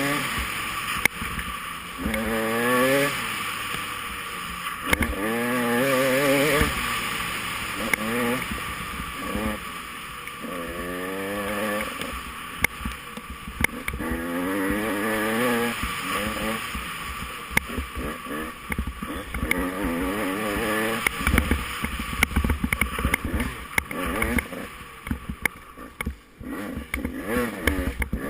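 Off-road motorcycle engine revving up and easing off again and again while riding a race trail, over a steady hiss, with scattered sharp knocks.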